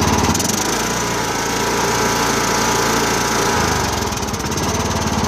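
Troy-Bilt Super Bronco lawn tractor's 19 hp Kohler engine running steadily just after a cold start that flooded it, purring like a kitten. Its note shifts about half a second in and settles back to the earlier running sound around three and a half seconds in.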